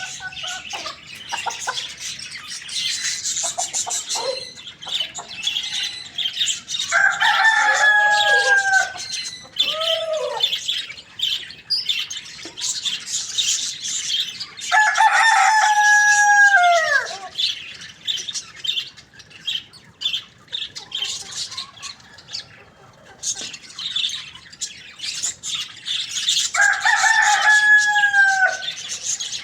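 Rooster crowing three times, each crow a long call that drops in pitch at the end, over continual high-pitched bird chirping.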